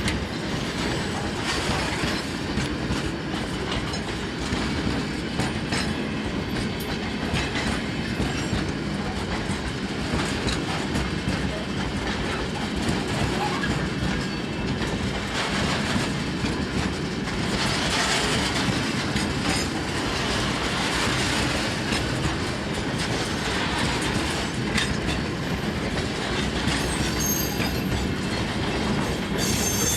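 Freight train wagons rolling past steadily, their wheels clacking over the rail joints, with a high wheel squeal starting near the end.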